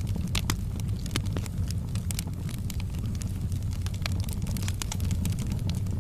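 Wood fire in a fireplace crackling: irregular sharp snaps and pops, several a second, over a steady low rumble of the flames.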